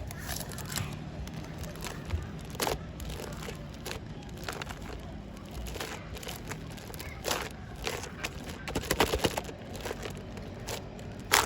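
Slime mixed with shaving foam being squished and kneaded by hand, giving scattered sharp clicks and pops, with a quick run of them a little past the middle, over a low steady hum.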